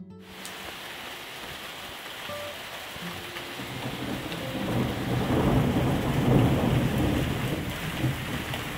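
Heavy rain pouring down, with a roll of thunder that builds from about four seconds in, peaks a couple of seconds later and eases off.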